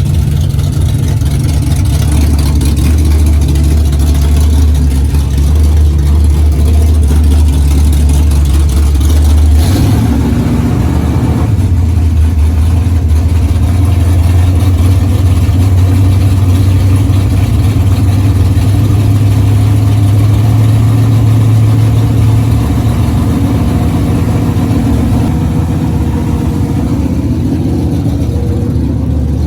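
1973 Dodge Challenger's 440 big-block V8 running loud and steady on its first fire-up after a rebuild. The engine speeds up about a third of the way in, holds the higher speed, then settles back toward idle near the end.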